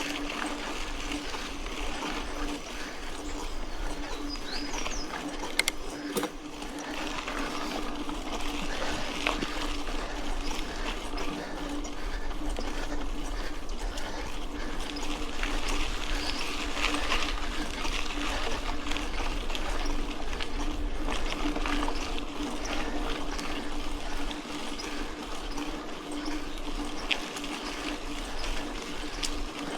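Mountain bike rolling along a dirt road: the tyres crackle steadily over the loose gravel, under a constant low hum.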